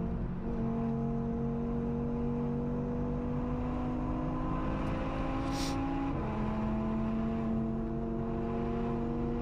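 Turbocharged 2.5-litre five-cylinder engine of an RS3-swapped Audi S1, heard onboard, pulling hard with its pitch climbing slowly through a gear. About six seconds in it upshifts: there is a brief hiss, the pitch drops, and the engine pulls again.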